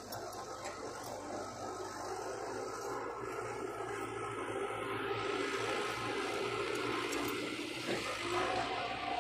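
Heavy earthmoving machinery (dump trucks and a bulldozer) running with a steady diesel engine noise that grows somewhat louder about halfway through, with a steady tone joining near the end.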